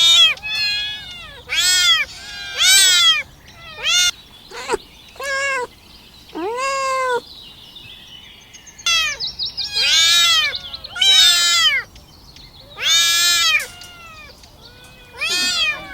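Young kittens mewing over and over: about a dozen short, high-pitched calls that rise and fall in pitch, some overlapping from more than one kitten. These are hungry kittens calling for their mother's milk.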